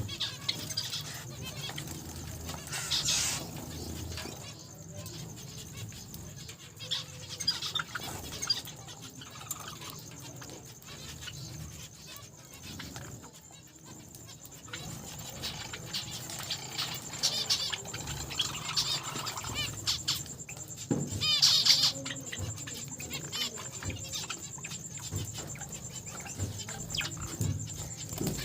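A flock of small cage finches calling and chirping, with short high chirps throughout and a louder run of calls about three-quarters of the way through. A steady high tone sounds underneath.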